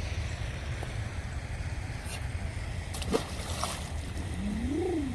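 Steady low wind rumble on the microphone, with a few brief water splashes about two and three seconds in. A short tone rises and falls near the end.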